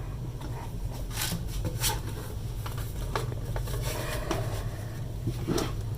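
Light scattered clicks, knocks and rubs from handling a transistor radio's case and parts on a workbench, over a steady low hum.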